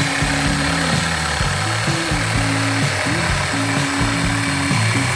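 Jigsaw cutting out a template shape in a thin 5/16-inch walnut plank, a steady buzzing cut, with background music playing alongside.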